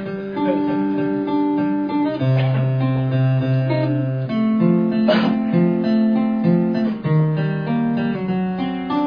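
Acoustic guitar playing chords, the chord changing every second or two.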